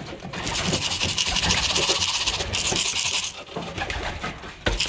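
Pigeon feed shaken in a container to call the birds in: a continuous rattling hiss for about three seconds that stops abruptly, then a single sharp knock near the end.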